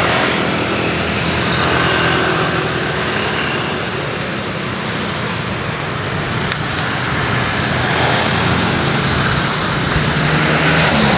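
Jet aircraft engines running, a steady noise with a faint high whine held throughout and a low hum beneath.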